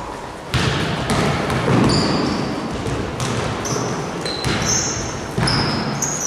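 Basketball game sounds in a gym: a ball bouncing on the court and sneakers giving short, high squeaks, over a background of voices.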